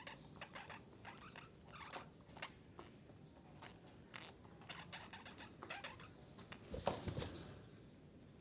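Female budgerigar chattering softly: a run of quick, quiet chirps and clicks, with a short louder rustle about seven seconds in.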